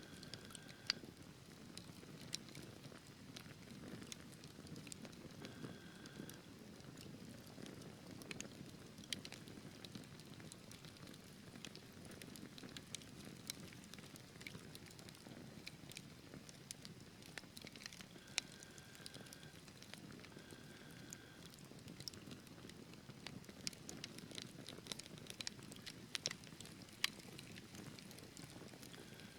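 Wood fire burning in a fireplace: a quiet steady rush of flames with frequent sharp crackles and pops from the burning logs. A few brief faint whistling tones sound now and then.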